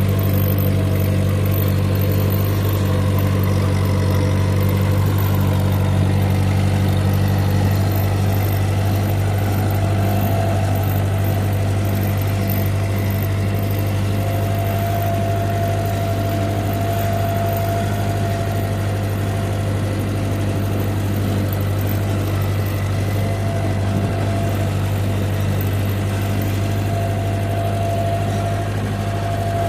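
Ford 8N tractor's four-cylinder engine running steadily at an even speed while the tractor is driven along.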